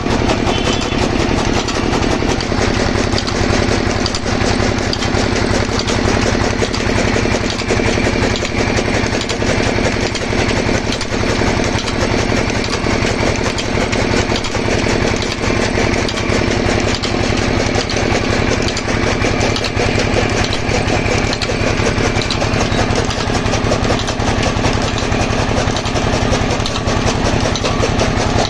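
Engine pumpset's engine running steadily at constant speed with a fast, even firing beat, driving a chaff cutter.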